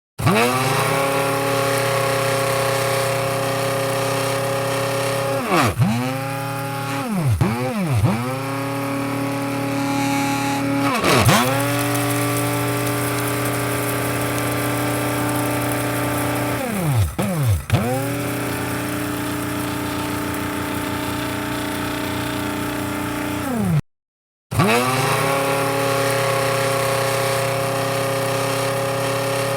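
Electric coffee grinder motor running with a steady whine, its pitch dipping sharply and swinging back up several times. The sound cuts out completely for a moment right at the start and again about 24 seconds in.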